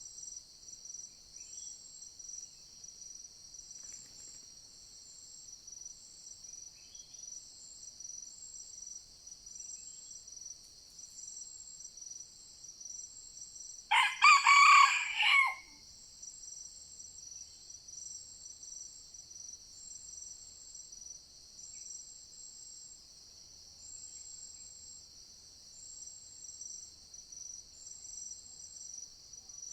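A red junglefowl rooster crows once, about halfway through, over a steady high chorus of forest insects.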